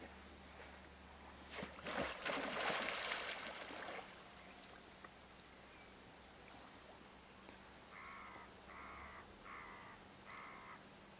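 A bird calling four times in steady succession near the end, short harsh calls about two-thirds of a second apart. Earlier, a loud rushing noise lasts about two seconds.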